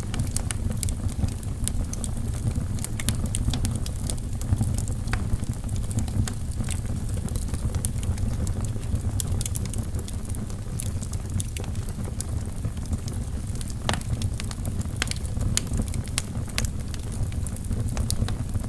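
Wood fire burning in a fireplace: a steady low rumble of the flames with irregular sharp crackles and pops from the burning logs, one louder pop about fourteen seconds in.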